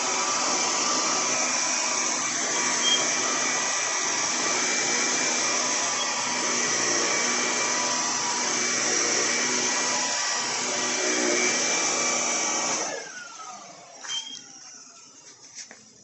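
Electrolux Olympia One 1401B vacuum cleaner running steadily with an even whine of several tones, very quiet for its age. About 13 seconds in it is switched off: the motor's whine falls away as it spins down, followed by a few light knocks.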